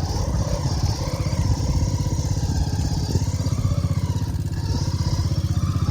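Bamboo train's small engine running steadily, with an even, rapid firing pulse as the platform travels along the track.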